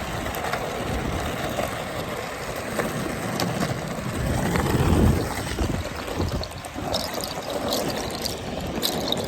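Skateboard wheels rolling over pavement: a steady rushing rumble with a few small clicks.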